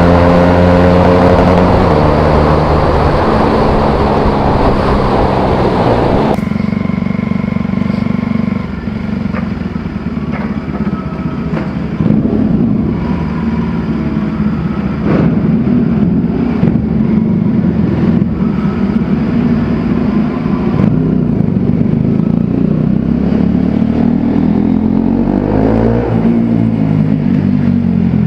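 Bajaj Pulsar 200 single-cylinder motorcycle engine running loud through an Akrapovic exhaust. It starts at high revs that fall away, drops abruptly about six seconds in to steady, lower running, and revs up and back down once near the end.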